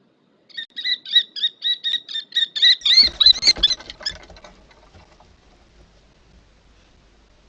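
Common kestrel giving its rapid, shrill 'kee-kee-kee' alarm call, about twenty short notes at five or six a second, lasting roughly three and a half seconds. A scuffling rustle runs under the last second of calls.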